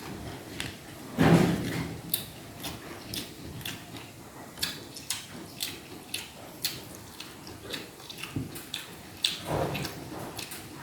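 Close-miked chewing of spit-roasted chicken: many quick wet clicks and smacks of the mouth, with two louder, longer bursts about a second in and again near the end.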